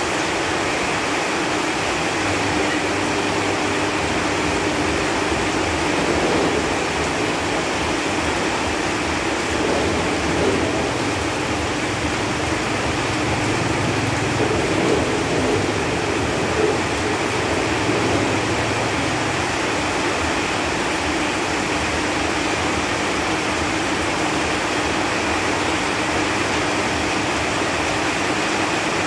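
Steady rain falling on leaves, an even hiss of many drops with no breaks. A faint low hum runs under it for much of the first two-thirds.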